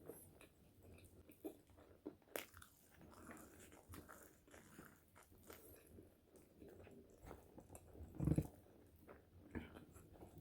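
Close-miked mouth sounds of someone biting and chewing French fries: soft crunches and wet clicks, with one louder low thump a little past eight seconds.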